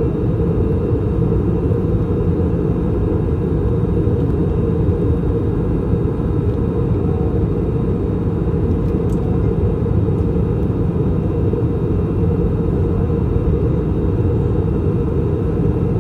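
Steady low rumble of an Airbus A321 cabin in descent: rushing airflow and the IAE V2533 engines, with a faint steady hum above it.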